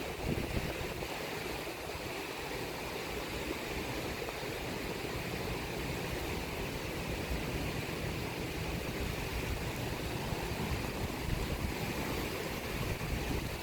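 Steady wash of sea waves on the shore, mixed with rain.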